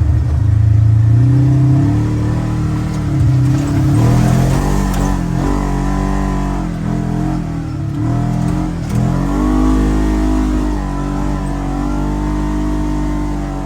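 Polaris General XP 4 1000 side-by-side's twin-cylinder engine running under load on a trail, its pitch rising and falling again and again as the throttle is worked.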